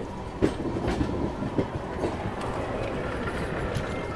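Passenger train running at speed, heard from beside the open coach doorway: a steady rumble of steel wheels on rail with several irregular clicks from the rail joints.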